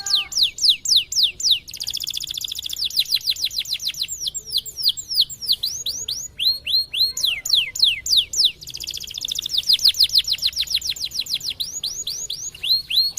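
Domestic canary singing: runs of sharp falling whistled notes, several a second, alternating with two fast rolling trills, one early and one about two-thirds of the way in.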